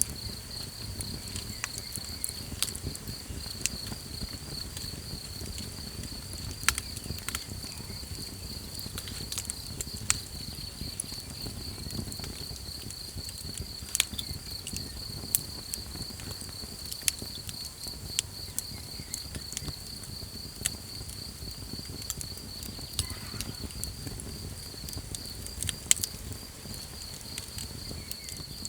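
Small campfire crackling, with sharp irregular pops every second or two over a low, soft rumble of the burning wood. Behind it, a steady high-pitched pulsing trill of night insects such as crickets.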